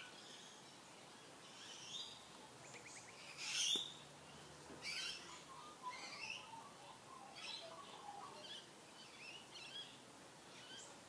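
Birds chirping and singing faintly: a string of short, irregular chirps and warbles, with one louder call a little under four seconds in.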